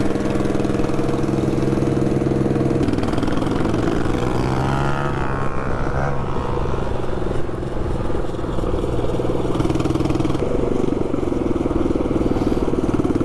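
Single-cylinder 224cc mini bike engine with a short straight-pipe exhaust, running steadily under way. Its note changes about three seconds in.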